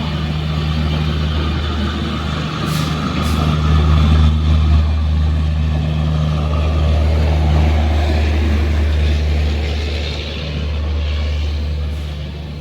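Express train pulling out of the station: a steady low engine rumble with running noise, swelling slightly midway, and two brief clicks about three seconds in.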